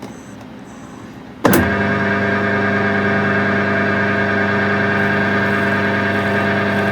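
Wood lathe switched on about a second and a half in, its motor then running steadily with an even hum and whine, ready to drill the end of the spinning finial.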